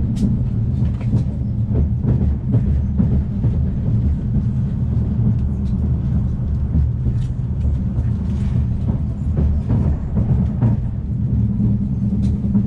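Afrosiyob high-speed train (a Talgo 250 trainset) running on the rails, heard inside a passenger carriage: a steady low rumble with scattered light clicks and rattles.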